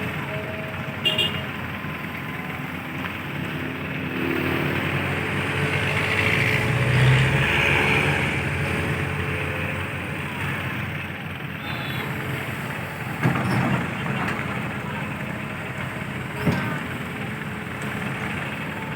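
Heavy diesel engines of an excavator and a dump truck running steadily, swelling louder about seven seconds in, with a few short sharp knocks.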